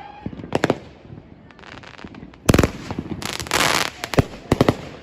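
Consumer fireworks going off. A whistle dies away right at the start. Then come a series of sharp bangs, the loudest about two and a half seconds in, a second-long burst of dense hiss, and a few more bangs near the end.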